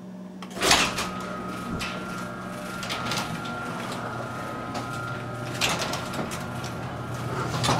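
Electric garage door opener starting with a clunk about a second in, then its motor running steadily as the door goes up.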